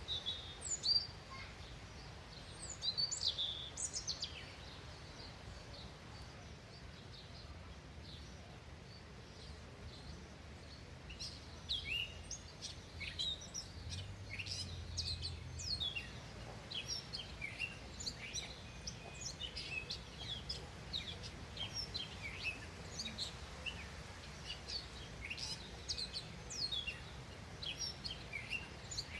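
Small songbirds chirping and calling: a few loud calls in the first few seconds, then a busy run of short chirps from about eleven seconds in, over a low steady background rumble.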